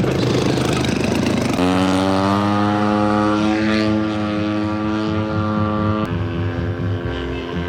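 Model airplane engine and propeller running at a steady buzz, its pitch sinking slightly. The sound changes abruptly about a second and a half in and again about six seconds in.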